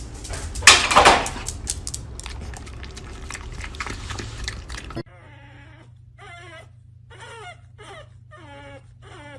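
Dog whining in about five short, wavering cries under a second apart, over a steady low hum. Before them comes a noisy stretch of clattering with a loud knock about a second in.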